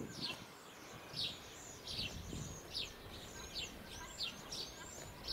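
Small birds chirping: a steady run of short, high chirps that slide downward, about two a second, with a few higher chirps among them.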